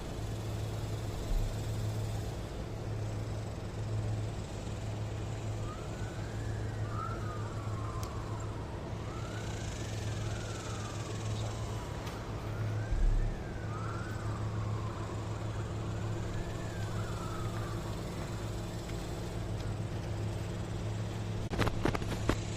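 A siren wails in five slow rising-and-falling sweeps, starting several seconds in and stopping well before the end, over a steady low vehicle hum. A few sharp knocks come near the end.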